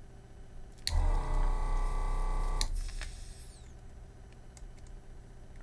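Vacuum pump of a Yihua 948 desoldering station running for about two seconds, a steady motor hum switched on and off with a click, sucking molten solder from a circuit-board joint.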